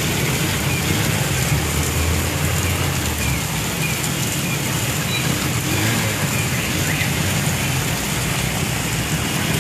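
Heavy rain falling steadily in a continuous hiss, with a low hum underneath that stops about three and a half seconds in.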